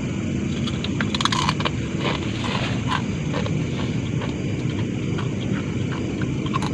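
Scattered crackles and scrapes, with a cluster about a second in, over a steady low rumble.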